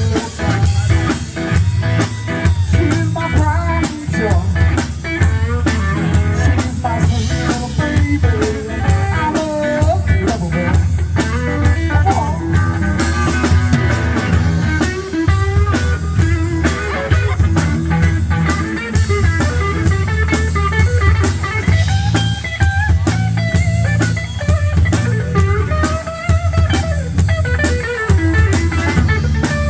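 Band playing blues-rock with guitar and drum kit, with a steady beat and a wavering guitar line over it.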